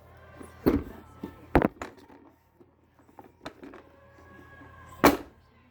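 Several sharp knocks or clacks; the loudest comes about five seconds in. A faint steady tone sounds just before it.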